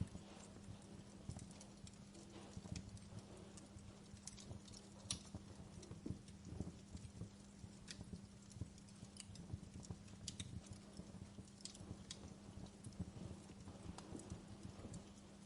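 Wood fire crackling in a fireplace: faint, irregular pops and snaps, a few a second, some sharper than others, over the low steady noise of the flames, with a steady low hum underneath.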